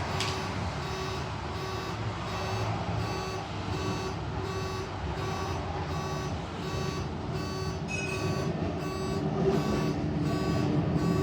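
Electronic warning beeper sounding a steady run of short pitched beeps, about two a second, over a low rumble of vehicle running noise.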